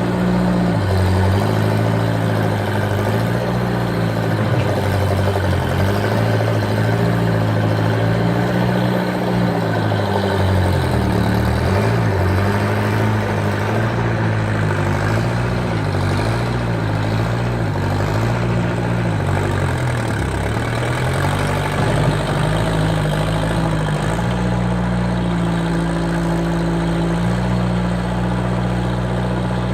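Skid steer engine running steadily as the machine works, its pitch wavering up and down and dipping briefly twice, about a third and two thirds of the way through.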